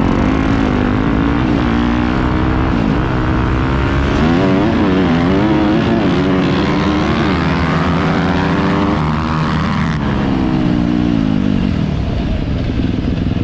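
Dirt bike engine revving hard, its pitch repeatedly rising and falling as the throttle is worked, with a low rumble underneath.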